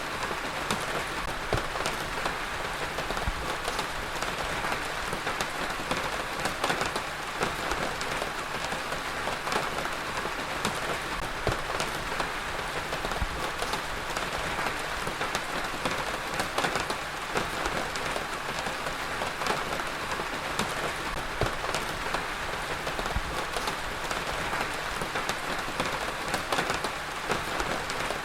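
Heavy rain falling steadily, a dense even hiss with many individual drops ticking on hard surfaces close by.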